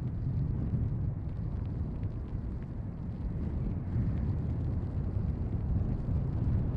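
Steady low rumble of strong wind buffeting the microphone, mixed with the engine noise of an Airbus A380.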